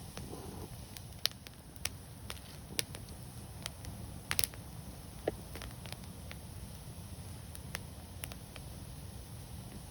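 Wood fire burning: irregular sharp crackles and pops over a low steady rumble of the flames, with the loudest pops about four seconds in.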